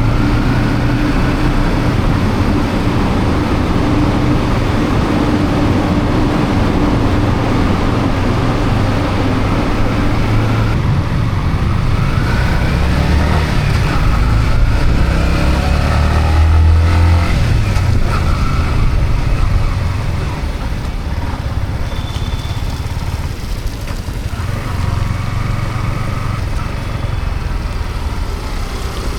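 Yamaha MT-15's single-cylinder engine running under way with road and wind noise, its pitch rising and falling through the middle as the bike accelerates and shifts, then settling quieter for the last third.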